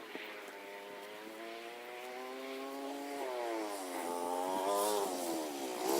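90cc quad bike engine running, growing steadily louder, its pitch rising and falling several times as the throttle is opened and eased.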